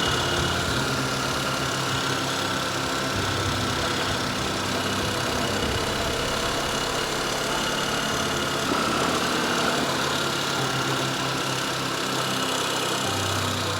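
Motorcycle engine running steadily at low revs, with a slight change in engine note near the end.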